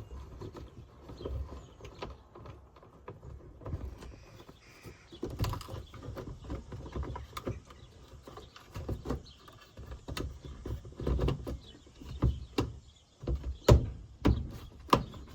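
Hands working on plastic interior trim and poking wiring in behind it: irregular knocks, rustling and clicks, with a few sharp clicks near the end.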